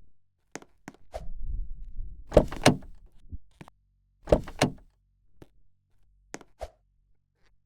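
Washing machine clunking and knocking: a low rumble with two loud knocks close together, then another pair of heavy knocks about two seconds later, among lighter clicks.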